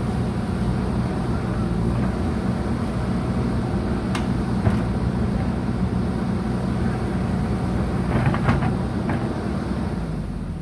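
JCB 3DX backhoe loader's diesel engine running steadily. There are a few short knocks about four seconds in and a small cluster of them around eight seconds.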